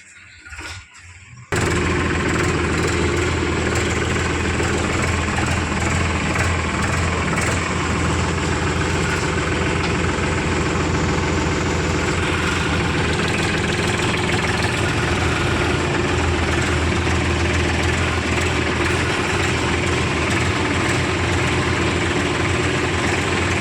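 A heavy diesel engine cuts in abruptly about a second and a half in and then runs steadily at a constant speed.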